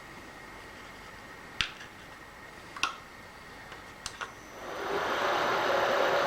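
A few light metallic clicks, then a machine-tool motor starts up about two-thirds of the way in, spinning up and running steadily with a hum and a whine.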